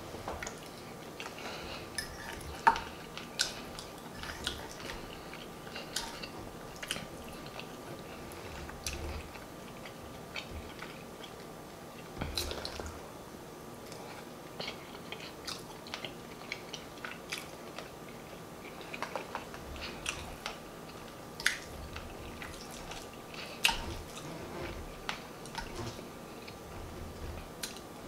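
Close-up chewing and lip smacking while eating soft mashed potatoes and smothered turkey wings: many small wet clicks, with a few sharper, louder ones standing out.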